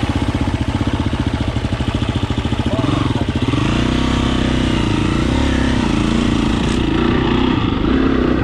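Dirt bike engine running with a fast, even pulse, then revving from about three seconds in as it pulls away, its pitch rising and falling with the throttle.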